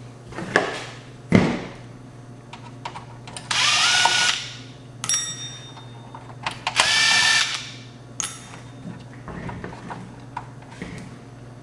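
Power screwdriver running in two short bursts, each under a second, its motor whine rising as it spins up, backing screws out of the receiver's back panel. Sharp clicks and knocks of handling the tool and chassis come between the bursts.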